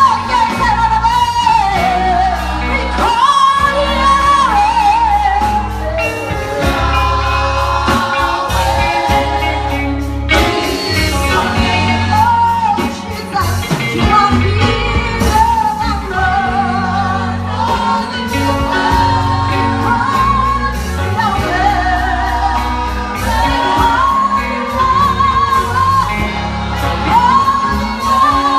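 Gospel worship song: voices singing over a band with a steady bass line and a regular beat.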